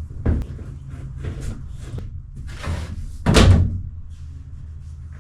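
Boat on its trailer being towed: a steady low rumble from the towing vehicle, with several knocks and a loud clunk about three and a half seconds in as the hull and fittings jostle.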